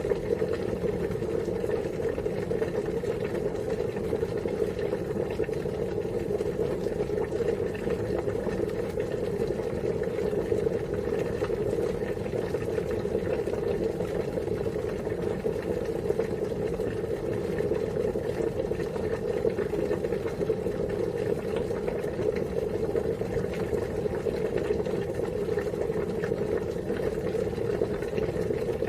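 Water at a rolling boil: dense, steady bubbling.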